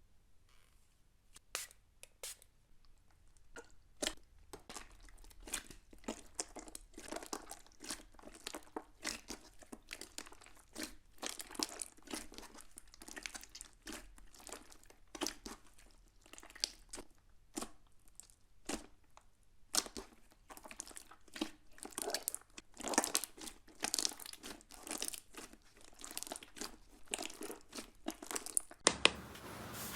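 Slime being squeezed and poked, making irregular crackling clicks and pops. Just before the end it changes abruptly to a steady hiss.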